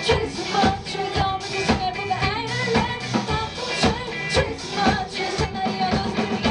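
Live pop band music with a steady drum beat.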